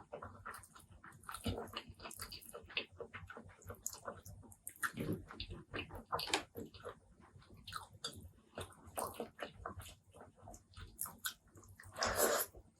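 Close-miked wet chewing and lip smacking of a person eating, a quick irregular run of moist clicks and smacks, with a louder, longer burst near the end.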